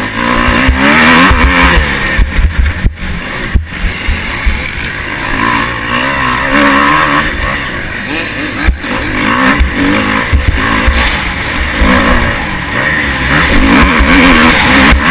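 Motocross bike engine revving hard and easing off again and again as the rider works the throttle and gears, heard from an onboard camera with wind rushing over the microphone. A few sharp knocks cut through, the loudest about nine seconds in.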